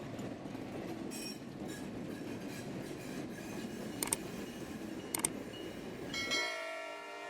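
Freight cars rolling along yard track in a steady low rumble, with a faint wheel squeal and two sharp clanks. About six seconds in the rumble cuts off and music begins.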